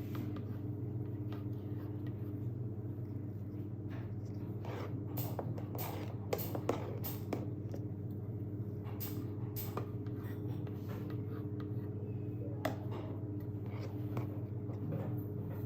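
Soft scraping and light clicks of cake-decorating tools being worked against a cake, scattered and thickest a few seconds in and again around ten seconds, over a steady low electrical hum.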